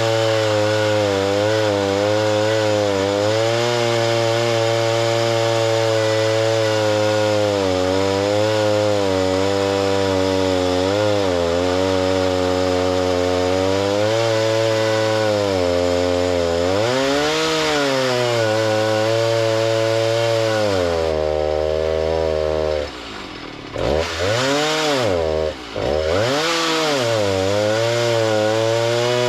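A gas-powered saw cutting lumber, its engine running steadily at high speed. Its pitch sags a few times under load, and about three-quarters of the way through it drops and quiets twice before revving back up.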